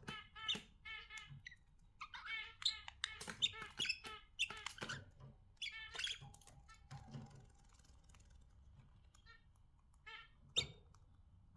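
Budgerigars chirping and chattering in quick, squeaky calls, busy for the first half, then thinning out to a few scattered notes and one louder call near the end.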